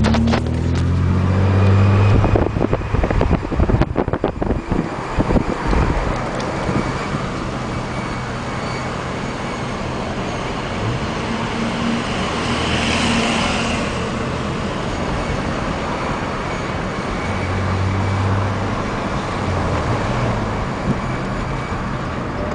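1998 Nissan Maxima SE with a five-speed manual driving at low speed: engine and road noise with a faint, steady high-pitched whine over it, the whining/squealing noise the owner hears at low speeds. A run of knocks and thumps about two to five seconds in, and a brief higher hiss about halfway through.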